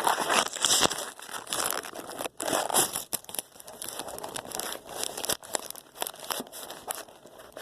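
Rustling and crinkling handling noise with scattered clicks and knocks, busiest in the first three seconds, then quieter and more sparse.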